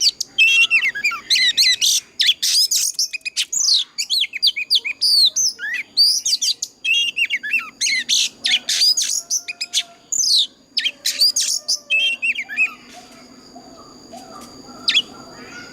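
Oriental magpie-robin singing a rapid, varied song of clear whistled notes that slide up and down. It breaks off about 13 seconds in, and one short note follows near the end.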